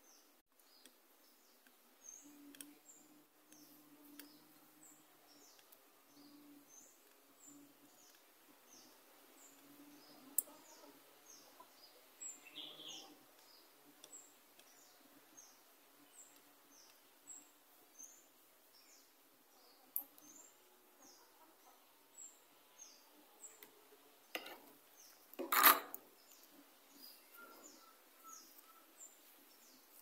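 Faint bird chirping: short, high chirps repeating a little more than once a second, with a brief louder rustle or knock about four seconds before the end.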